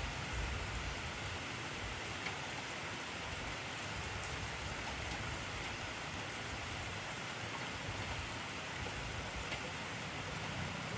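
Intense rainfall: a steady, even hiss of heavy rain with a few faint drop ticks.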